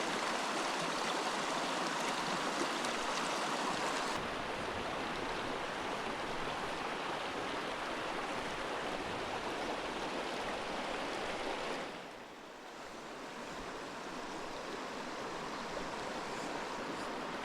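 Creek water rushing over rocks, a steady rush of noise, with a sudden change in its tone about four seconds in and a brief drop about twelve seconds in.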